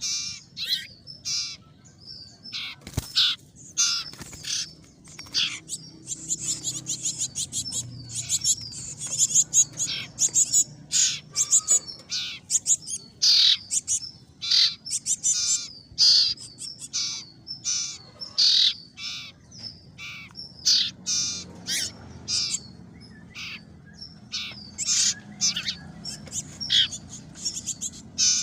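A young glatik chirping over and over in rapid, sharp, high calls, the begging calls of a bird being hand-fed.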